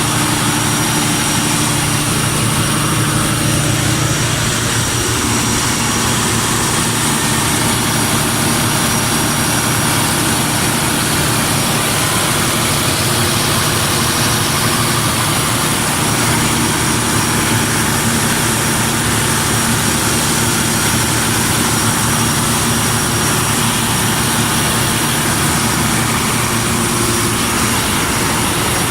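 Large Mitsubishi 600 kW diesel generator set running, a loud, steady engine drone with a constant mix of low hum and hiss.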